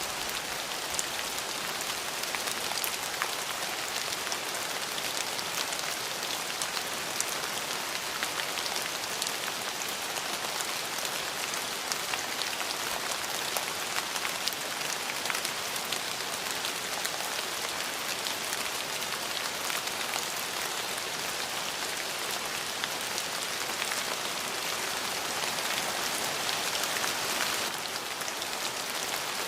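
Steady rain falling, an even hiss dotted with many individual drop ticks, with a slight dip in level near the end.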